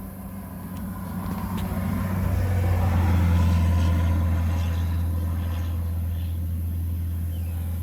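A road vehicle passing by: a low engine hum and tyre rush swell to a peak about three seconds in, then slowly fade.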